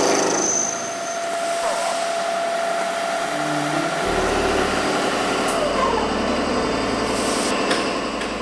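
Tube-drilling machine running, a dense, steady mechanical noise with a low hum that comes in about halfway through.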